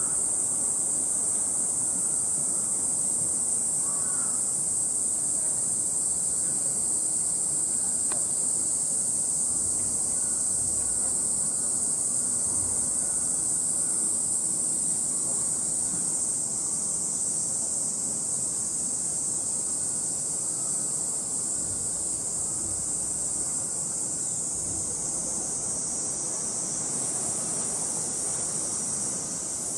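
Steady, high-pitched insect chorus droning without a break, its pitch sagging slightly near the end, over faint outdoor background noise.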